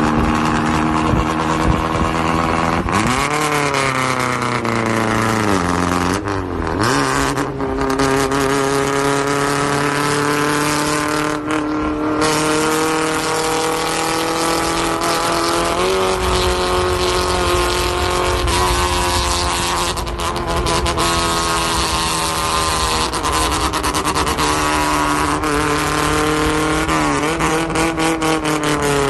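Tofaş Kartal's engine running through a custom exhaust, mostly at a steady idle, revved up and let fall back a few times: about three seconds in, again around six to seven seconds, and near the end.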